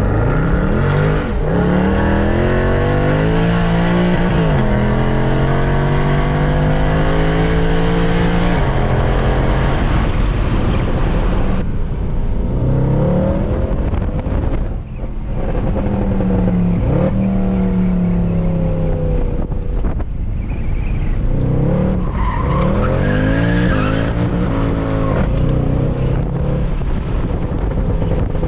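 Mercedes C63 AMG's 6.2-litre V8 with secondary cats and resonators deleted, driven hard: the exhaust note climbs in pitch under full throttle, then drops sharply at each shift or lift, several times over.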